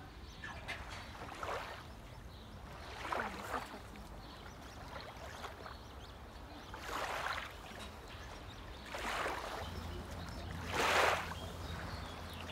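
Water slapping and sloshing against a moored boat's wooden swim platform in five short splashes, irregularly a couple of seconds apart, the loudest near the end. A low steady hum comes in about ten seconds in.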